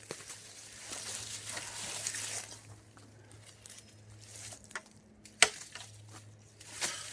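Rustling and scuffing handling noises over a steady low hum, with small clicks and one sharp click about five and a half seconds in.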